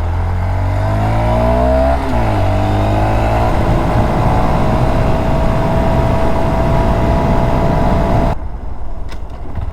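Motorcycle engine pulling up through the revs, with a quick dip in pitch about two seconds in as it shifts up. It then runs at a steady high pitch under wind noise on the microphone, until the throttle is closed near the end.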